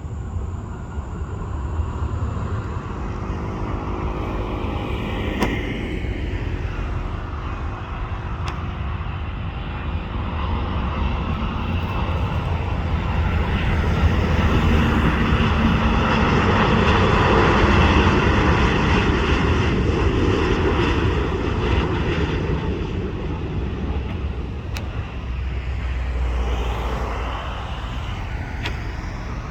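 Jet airliner's engines passing close by: the noise builds to a peak about halfway through and then fades, with a steady low rumble underneath.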